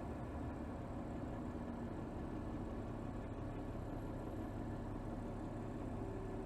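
Mercedes GLS 450's 3.0-litre turbocharged inline-six running steadily at low load, heard from under the hood.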